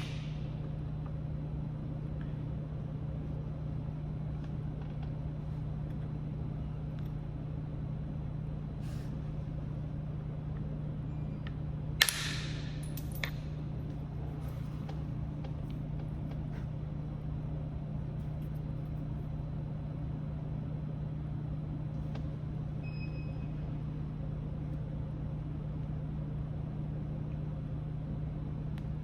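A steady low hum, with a few light clicks and one sharper click about twelve seconds in.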